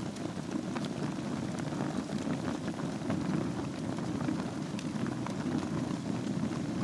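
Wood fire burning in a fireplace: a steady low rush of flames with many small crackles and pops scattered through it.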